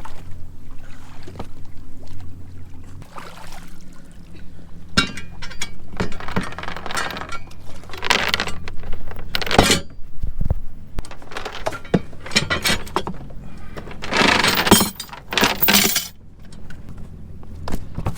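Hard objects clattering and clinking in several bursts over a low steady hum, as gear is stowed aboard a small boat.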